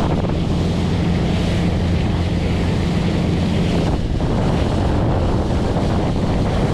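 Motorboat engine running steadily at speed, with water rushing past the hull and wind buffeting the microphone.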